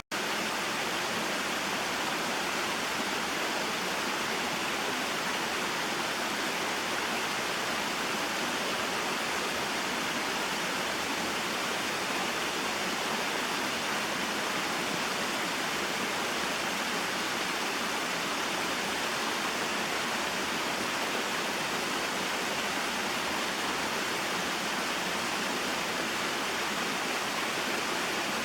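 Small mountain waterfall and stream: a steady, even rush of falling and flowing water.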